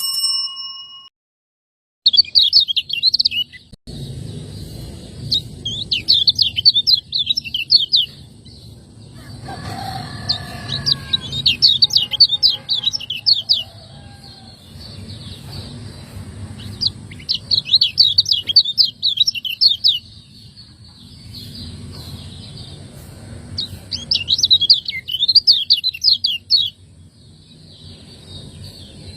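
A kecial kuning (Lombok white-eye) singing in its fast 'ciak-ciak' chattering style: rapid runs of high chirps in phrases of two to three seconds with short pauses between them, over a steady low background hum. A brief chime-like tone sounds at the very start.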